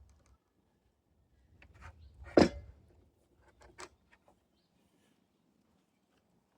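A few knocks and clicks of boards and tools being handled during table assembly, with one loud knock about two and a half seconds in.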